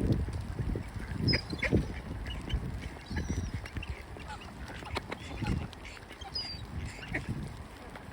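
Ducks quacking repeatedly at close range, with scattered higher bird calls, over a low rumble of strong wind buffeting the microphone.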